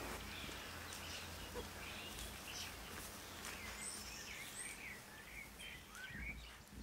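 Faint outdoor background noise with scattered short bird chirps, most of them in the second half.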